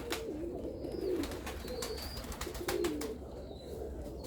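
Domestic pigeons cooing, a run of low, wavering coos over and over, with a few sharp clicks among them.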